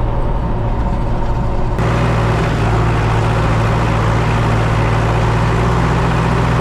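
Tractor engine running steadily. About two seconds in the sound steps up, louder and with more hiss on top.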